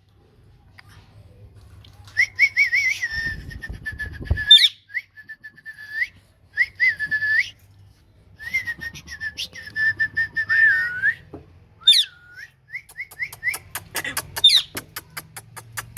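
Ringneck parrot whistling: a string of warbling whistles with quick rising and falling sweeps, broken by short pauses. Near the end comes a fast run of sharp clicks, several a second.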